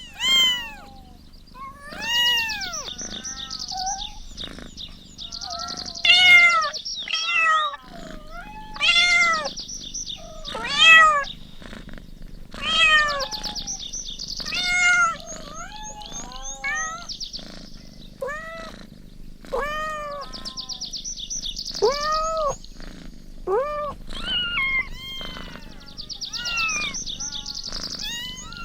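Kittens mewing over and over: short, high-pitched mews that rise and fall, often overlapping, one or two a second.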